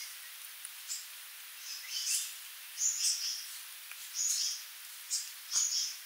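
Sooty babbler giving a series of short, high-pitched call notes, about one a second, over a steady faint hiss.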